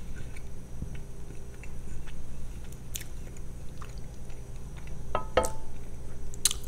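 Close-miked chewing and biting of a Sunday roast dinner, with a few sharp clinks, the loudest ringing briefly about five seconds in, over a steady low hum.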